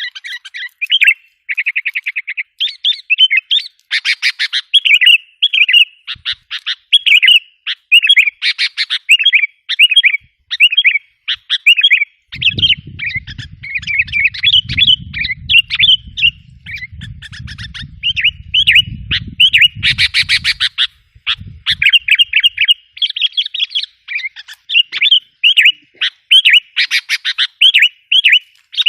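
Sooty-headed bulbuls calling and chattering without pause, a dense run of quick, loud chirping notes used as a lure call for wild bulbuls. A low rumble runs under the calls from about twelve to twenty-one seconds in.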